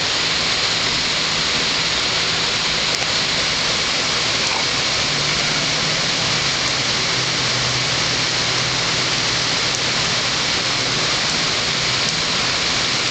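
Heavy rain pouring down steadily in a constant, loud hiss.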